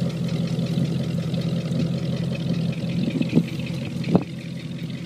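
1949 Ford's flathead V8 idling steadily through its dual exhaust, a low even hum, with two short clicks in the last couple of seconds.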